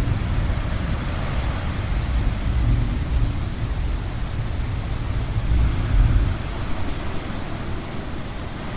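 Steady hiss of ocean surf and rain under a low rolling rumble of distant thunder, which swells about six seconds in.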